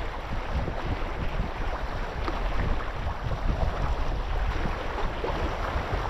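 Wind buffeting the microphone with a steady low rumble, over the wash of waves on open water.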